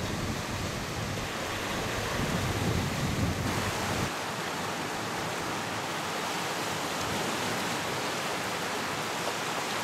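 Wind buffeting the microphone over a steady rushing hiss. The low buffeting stops about four seconds in, leaving only the even hiss.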